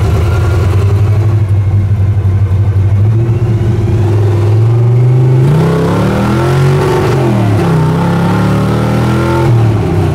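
Car engine pulling hard under acceleration: a steady drone that starts climbing in pitch about a third of the way in, rises and drops several times as it runs up through the gears, then settles back near the end. It runs clean all the way through.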